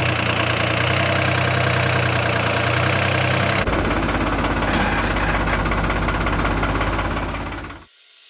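Tractor diesel engine running steadily. About three and a half seconds in, the sound changes abruptly to a deeper, heavier note, then fades out near the end.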